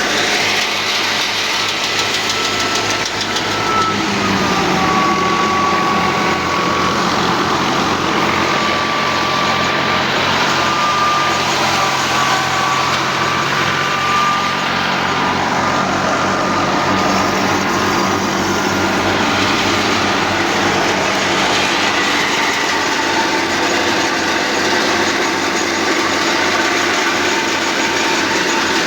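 Al-Ghazi tractor engine running steadily at working speed. A thin high whine sits over it, dropping slightly in pitch a few seconds in and fading out past the middle.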